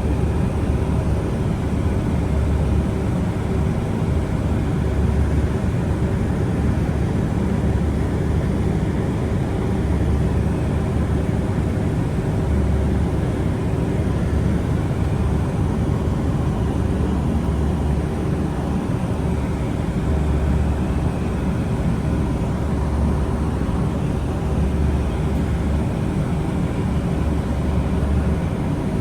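Steady running noise of a vehicle heard from inside during a ride: a continuous low rumble with a constant hum.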